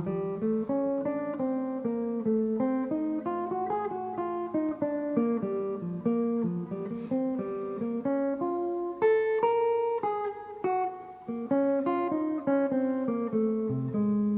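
Guitar playing a fast bebop single-note line over a C minor line cliché moving through F7 to B flat, with notes changing several times a second over a lower sustained note.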